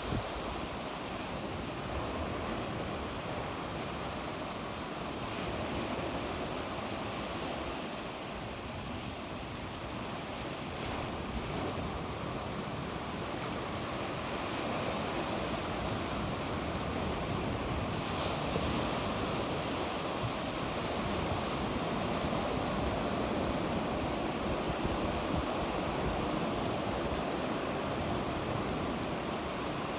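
Sea waves breaking and washing on the shore: a steady surf that swells and eases slowly, with a brighter, hissier wash setting in a little past halfway.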